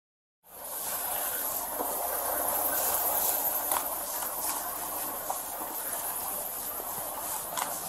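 Steady rushing hiss of background noise picked up by a body-worn camera's microphone, cutting in abruptly about half a second in after dead silence, with a few faint clicks.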